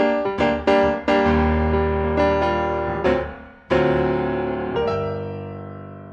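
Background piano music: a few quick notes, then sustained chords that ring and fade out at the end.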